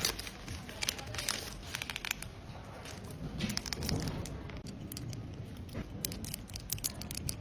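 Hands and small repair tools working on an iPhone 11 during a screen replacement: irregular small clicks, taps and crinkling.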